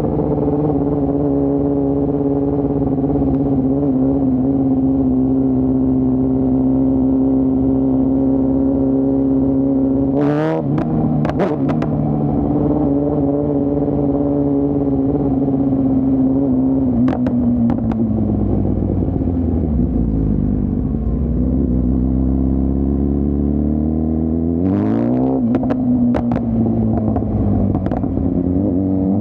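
2024 BMW S1000RR's inline-four engine and exhaust under riding: it holds steady revs for about ten seconds with a few sharp cracks around then, winds down to low revs about halfway through, then accelerates again with more cracks, its pitch rising once more near the end.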